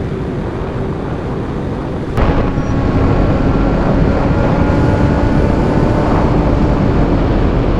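Motorcycle at high speed heard through a helmet microphone: engine drone over a constant rush of wind. About two seconds in there is a sharp click and the sound gets suddenly louder, then holds steady.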